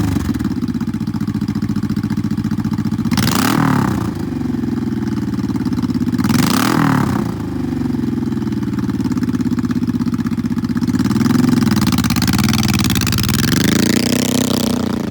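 2004 Honda Shadow Sabre 1100 V-twin with an aftermarket Cobra exhaust idling, with two quick throttle blips about three and six seconds in, then a run of smaller blips near the end.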